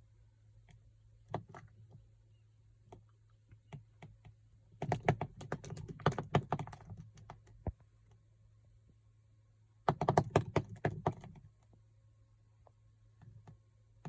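Rapid clicking and tapping in two dense runs of about two seconds each, with scattered single clicks between.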